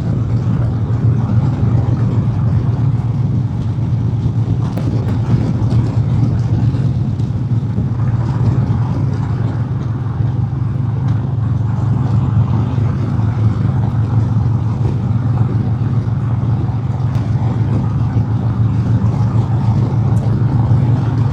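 Harley-Davidson motorcycle's Milwaukee-Eight V-twin running steadily at highway cruising speed, heard through a helmet microphone with wind noise over it.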